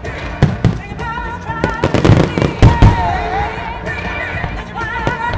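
Display fireworks bursting overhead, a string of booms with the loudest pair near three seconds in, over a pop song with a singing voice played along with the show.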